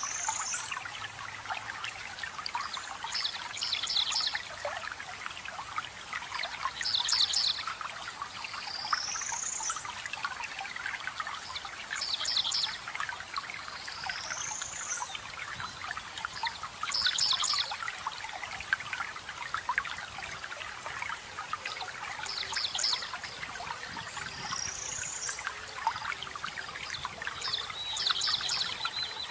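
Water trickling and splashing steadily, with songbirds calling over it. The birds give short clusters of quick high notes and rising whistles every few seconds, with a brief trill near the end.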